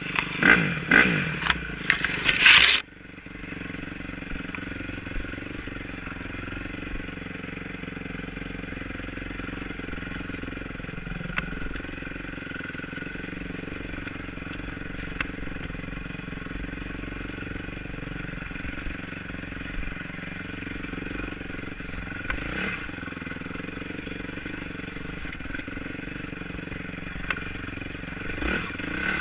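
Enduro motorcycle engine revving hard with sweeping rises and falls in pitch for the first few seconds, then cutting back abruptly to run steadily at a lower, even note, with a few faint clicks and brief blips.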